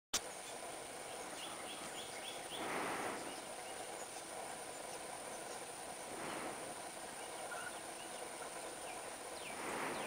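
Outdoor woodland ambience: a bird gives a quick run of five short high notes about a second and a half in, over a faint steady high insect hiss. Three soft swells of rushing noise come and go about three seconds apart, and are the loudest thing heard.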